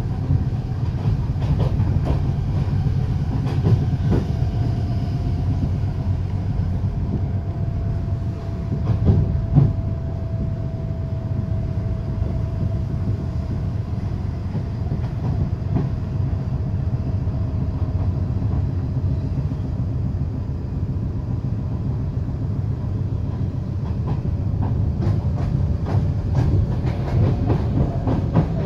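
Inside a Litra SA S-tog electric commuter train running at speed: steady wheel-and-track rumble with scattered clicks over the rail. A whine from its Siemens GTO-VVVF traction drive slowly falls in pitch as the train eases off. Near the end the clicks grow denser as another train passes close by.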